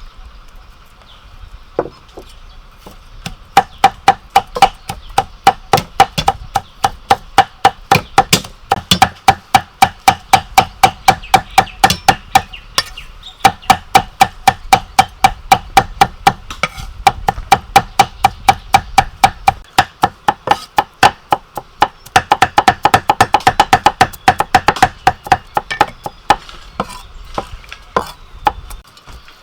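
A knife chopping food on a cutting board, steady strikes about two to three a second, each with a short ring from the board. The chopping quickens into a fast run near the end.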